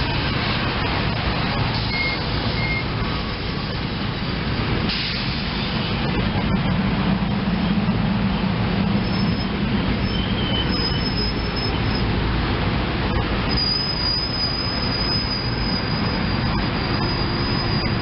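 SEPTA Silverliner IV electric multiple-unit commuter train running in with a steady rumble. A high thin squeal sets in from about halfway and carries on to the end.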